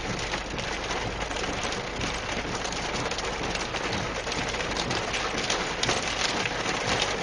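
Heavy rain from a tornadic thunderstorm pattering steadily on a surface, a dense, unbroken rush of drops.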